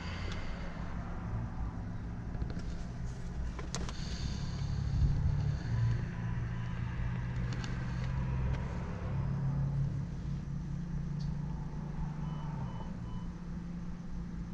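Car engine running as a steady low hum whose pitch shifts a little, with a sharp click about four seconds in.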